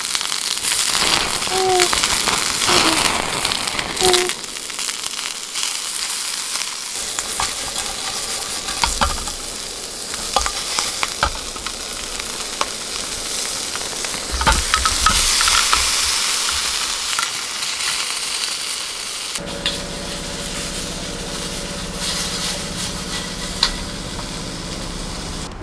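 Food sizzling and frying in a pan, with scattered small clicks and taps. About three-quarters of the way through the sound changes and a steady low hum comes in under the hiss.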